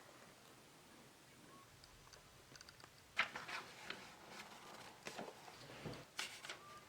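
Near silence, then a few faint scattered clicks and rustles starting about halfway through.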